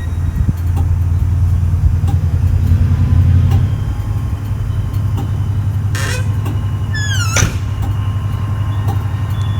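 Train at a station with its engine running in a steady low hum; two short high squeals sound about six and seven seconds in, the second falling in pitch.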